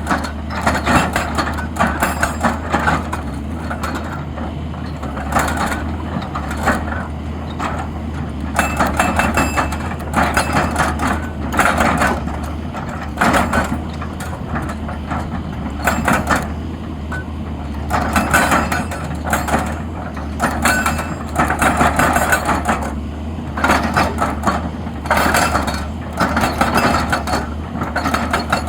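XCMG XE200DA excavator working: the diesel engine runs steadily under load, with irregular clattering bursts every second or two from the working gear.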